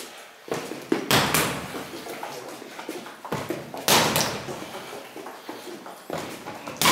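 Strikes landing on a BOB rubber torso training dummy: heavy hits, two close together about a second in, another near four seconds and a last one near the end, each with a short ringing tail.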